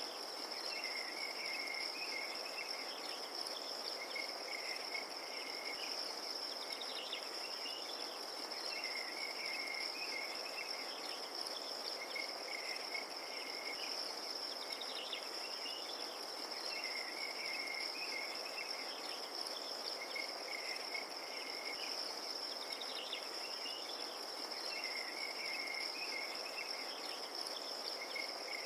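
Crickets trilling steadily at a high pitch, with lower chirping calls coming back every few seconds over a soft, even hiss of night ambience.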